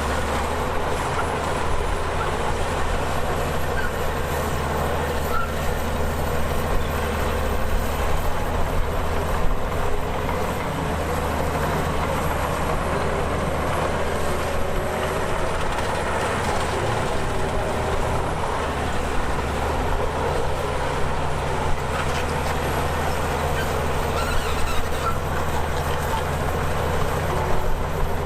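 Crawler bulldozer's diesel engine running steadily at work, with a constant low hum and a few short, sharper knocks.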